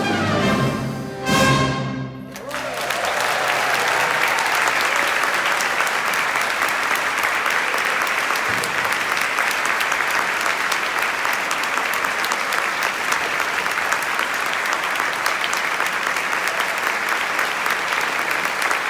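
Symphony orchestra and brass finishing a piece on a last loud chord about two seconds in, then an audience applauding steadily.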